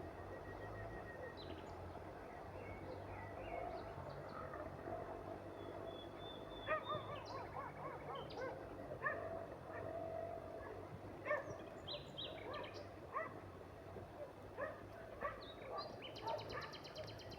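A dog barking repeatedly at irregular intervals from about seven seconds in, over scattered bird chirps and a steady low hum. Near the end a fast, high trill joins in.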